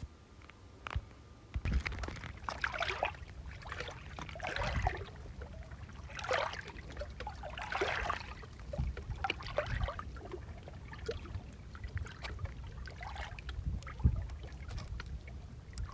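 Lake water lapping and splashing in small irregular slaps, with occasional low thuds.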